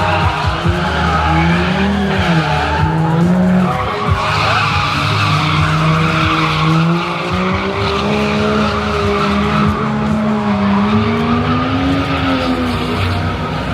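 A drift car's engine running hard, its revs rising and falling again and again, with the tyres squealing as it slides.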